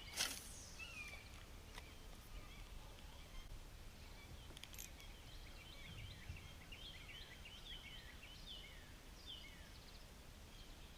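Faint birds chirping: many short, high, falling chirps, coming thickest in the second half, over a low steady rumble of wind, with a sharp tap right at the start.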